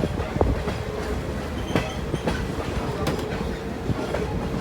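Passenger train rolling along the track: a steady low rumble with sharp wheel clacks over the rail joints. From about halfway a faint steady squeal of wheels on rail joins in.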